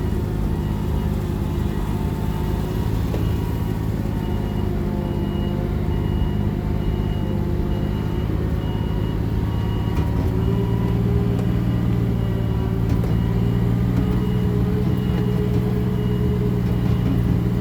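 Vehicle engine running steadily, heard from inside the cab, its pitch edging up a little about ten seconds in. A short high beep repeats about once a second, typical of a reversing warning, and fades out near the end.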